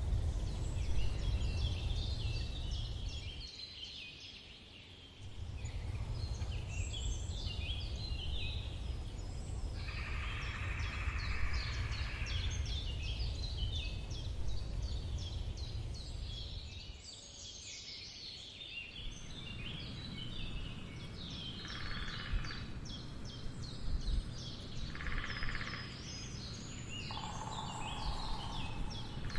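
Woodpecker drumming in short rolls several times over a chorus of small songbirds chirping, with a low rumble underneath that fades out twice.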